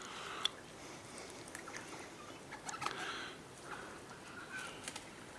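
Faint outdoor ambience of birds at a feeder: a few soft, short chirps and scattered small clicks over a quiet background hiss.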